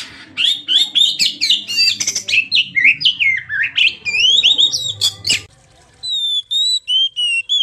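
Oriental magpie-robin song: a fast, varied run of loud chirps, trills and whistled phrases. After a short break about five and a half seconds in, it gives way to a series of clear, repeated whistled notes.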